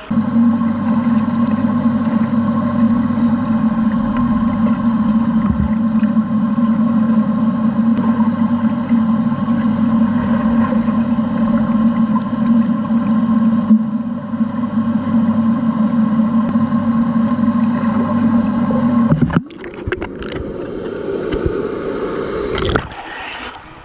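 Steady droning hum with several fixed tones, as heard with the camera submerged in a swimming pool. It cuts off abruptly about nineteen seconds in, followed by a shorter, rougher noise.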